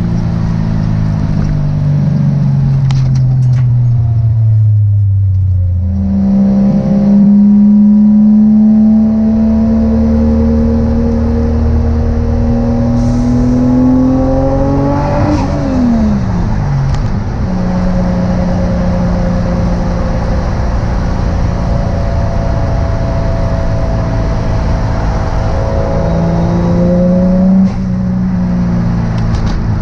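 Toyota 1JZ-GTE VVTi turbocharged inline-six in a Nissan 240SX S13 under way. The revs fall off, then climb steadily under throttle and drop sharply about halfway through. After a steady cruise they rise once more and cut off suddenly near the end.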